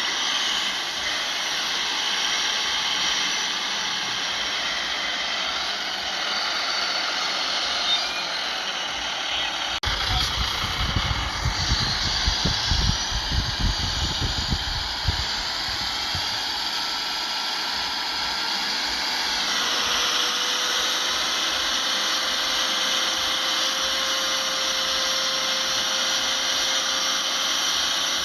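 Heavy earthmoving machinery engines running steadily with a high whine. About ten seconds in comes a stretch of low rumbling with knocks, and around twenty seconds in the engine pitch shifts and settles on a steadier tone.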